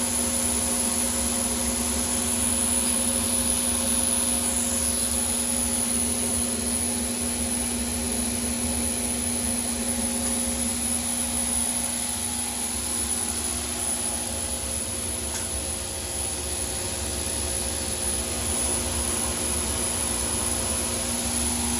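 GE turbine running steadily, a constant hum with a high whine over a low rumble.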